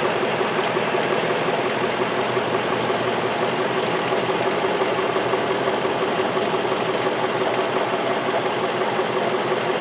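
2003 Infiniti M45's 4.5-litre V8 idling steadily. The car is being diagnosed for intermittent random-cylinder misfires (code P0300).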